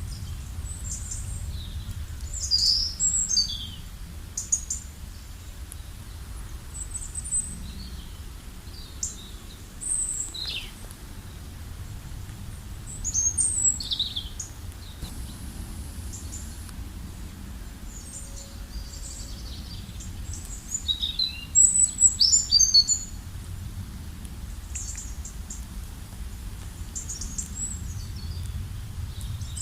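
Several wild birds calling and singing in short high chirps and trills, scattered, with bursts clustered about 2–3 s in, around 13–14 s and densest around 21–23 s. A steady low rumble of background noise runs underneath.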